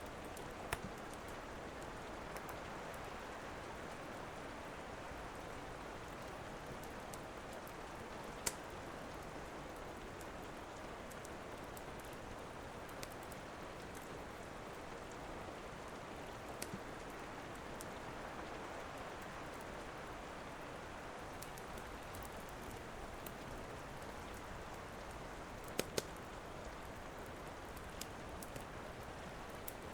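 Steady rain, with a few sharp pops from a wood fire crackling in a fireplace, a close pair of them near the end.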